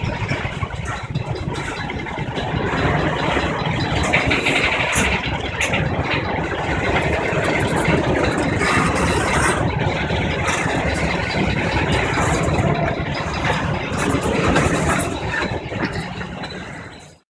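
Diesel locomotives of a Trillium Railway train running as it moves along the track, a steady engine and rail rumble. It is loudest at the start, eases over the first couple of seconds, and then cuts off suddenly near the end.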